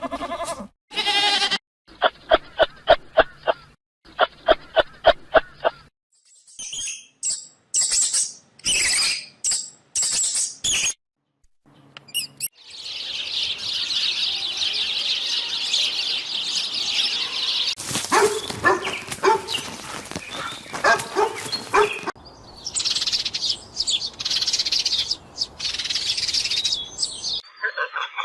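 A run of different animal calls, one after another with short gaps: rapid pulsing trills, a string of short high chirps, then a long stretch of dense, high chirping chatter.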